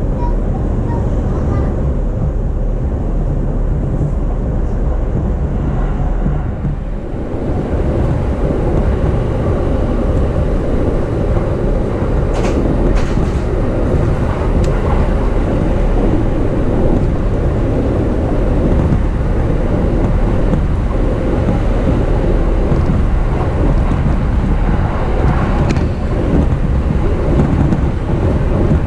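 Steady low rumble of an E233-series electric commuter train running on the rails, heard from inside the carriage, with a few short sharp clicks around the middle and near the end.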